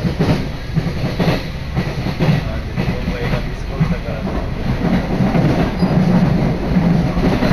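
Electric commuter train running, heard from inside the carriage: a steady rumble with the wheels clacking over rail joints about once a second.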